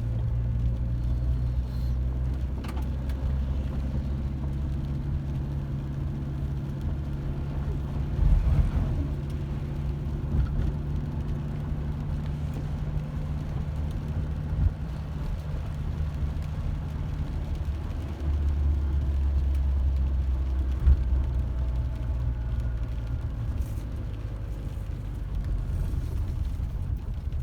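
A car running, a steady low hum with a few brief knocks, the loudest about eight seconds in and near twenty-one seconds.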